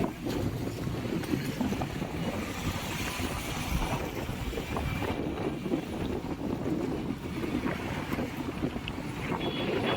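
Wind buffeting the microphone in a steady low rumble, with the noise of a moving vehicle.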